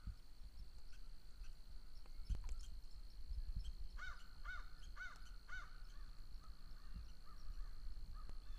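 A bird calling in a series of short, arched calls, about two a second and bunched about four to six seconds in, over a low rumble of wind on the microphone. A faint steady high tone runs underneath.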